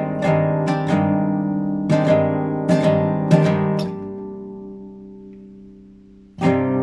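Classical guitar played freely: a run of quick plucked notes and chords, then a chord left ringing and slowly fading for a couple of seconds, and a fresh chord struck near the end.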